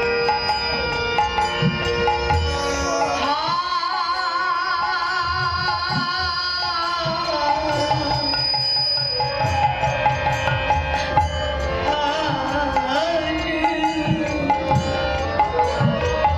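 Devotional kirtan music: a voice slides up about three seconds in and holds long notes with a wavering vibrato, over steady sustained accompanying tones and regular drum strokes.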